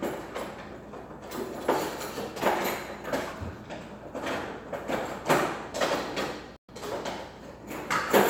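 Kitchen clatter: a run of separate knocks and scrapes, like cookware, utensils and drawers or cupboards being handled. The sound cuts out briefly about six and a half seconds in.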